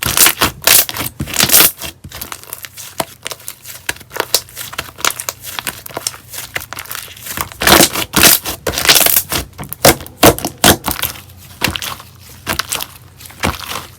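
Slime being squished and pressed by hand, giving a dense run of crackling pops and crinkles, with louder clusters about halfway through.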